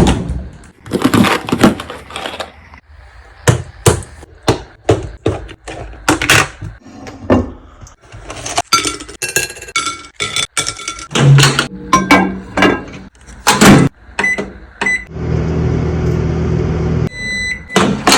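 Kitchen handling: repeated knocks and clinks of dishes and utensils. Near the end, microwave oven keypad beeps, the oven runs with a steady hum for about two seconds, then beeps again.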